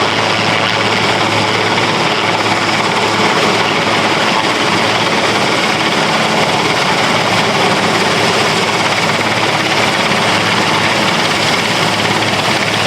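Helicopter running steadily: a constant loud engine and rotor noise with a steady low hum, unchanging throughout.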